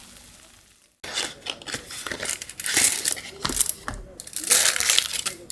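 After a brief silence about a second in, irregular crinkling and crackling, as of wrapping or packaging being handled.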